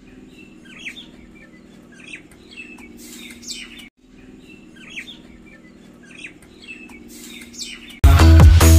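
Small birds chirping over a steady low hum, the same few seconds of chirping heard twice. Near the end, loud chanted music cuts in.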